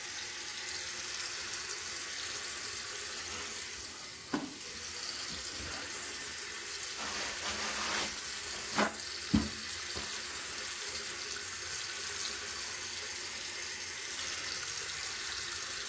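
Bathroom sink faucet running steadily into the basin, with a few brief knocks around the middle.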